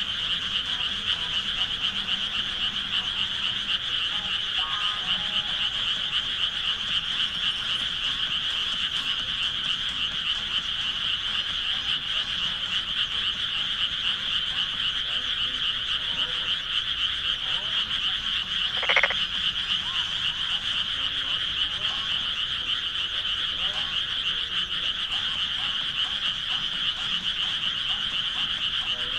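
Dense chorus of many frogs calling at once, a steady, finely pulsing high-pitched trilling. About two-thirds of the way through, one short, louder sound stands out above the chorus.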